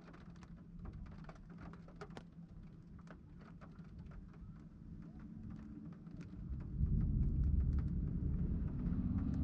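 Scattered raindrops ticking, then about six and a half seconds in a deep rumble of thunder builds and carries on loudly.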